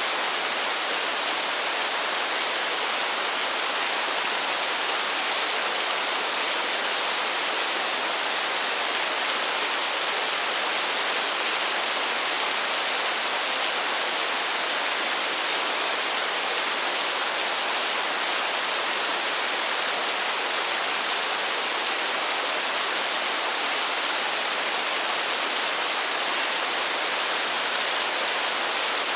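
Rain falling steadily: a dense, even hiss with no single drops or changes standing out.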